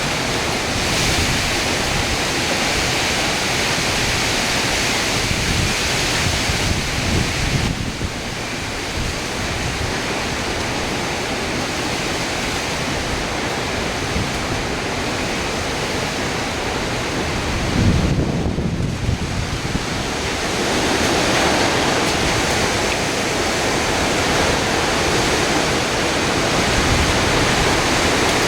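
Hurricane wind and heavy rain rushing past the microphone in a loud, steady roar of noise, with gusts rising and falling and wind buffeting the mic.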